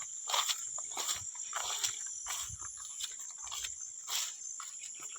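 Insects trilling steadily in a high, continuous chorus, with irregular short scuffing or snuffling noises close by.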